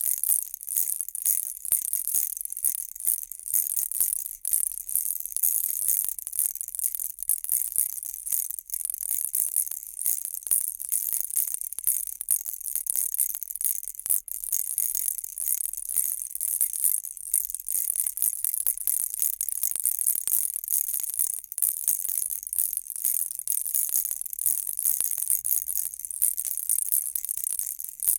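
Baby rattle shaken steadily: a dense, high-pitched, unbroken rattling.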